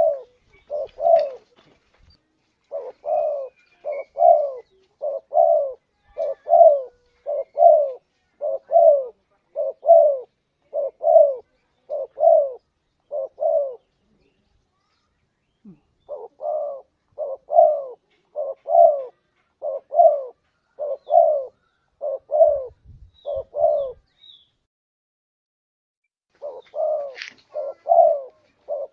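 Spotted dove cooing: runs of short, low coos repeated about once a second. A pause of a couple of seconds splits the runs, and a longer pause comes before a new run near the end.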